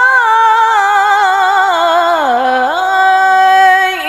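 A woman reciting the Quran in the melodic tilawah style, drawing out one long ornamented note. Its pitch slides down about two seconds in and climbs back, with small wavering turns throughout.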